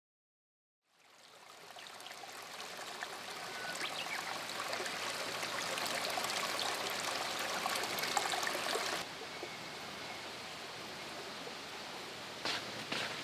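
Running or bubbling water, fading in and growing steadily louder, then cutting suddenly to a quieter stretch about nine seconds in, with a couple of sharp clicks near the end.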